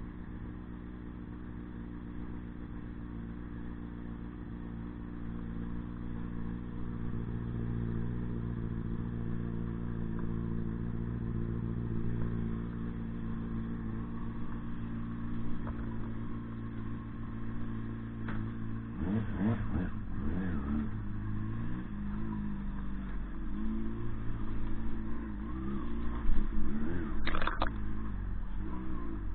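Motorcycle engine running at a steady pitch, then revving up and down about two-thirds of the way through, with a short sharp click near the end.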